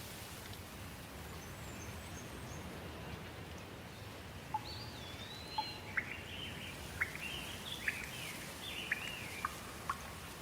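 Steady rain with songbirds singing over it. From about halfway through, a bird gives warbling, whistled phrases broken by sharp short chips.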